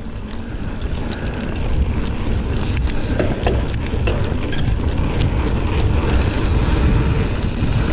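Giant Fathom 29 mountain bike being ridden along a dirt trail: wind rushing over the microphone, a low rumble from the tyres, and scattered clicks and rattles from the bike, gradually getting louder.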